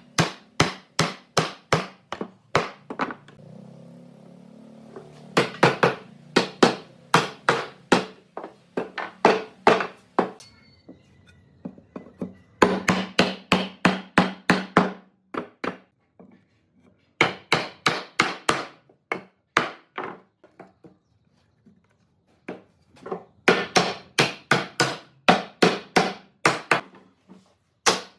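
Hammering on wood: runs of sharp blows, about three a second, broken by several short pauses.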